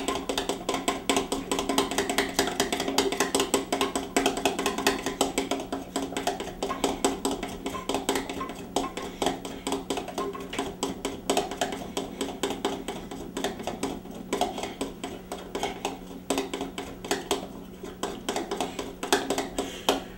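A spoon beating stiff cake batter fast in a bowl, clacking against the bowl several times a second, with music playing behind it.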